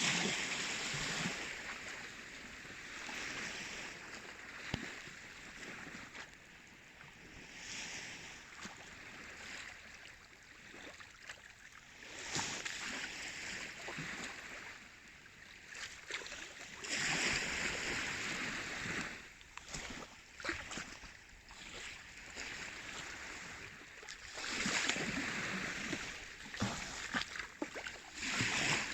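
Baltic Sea waves washing in, the rushing sound swelling and fading every few seconds.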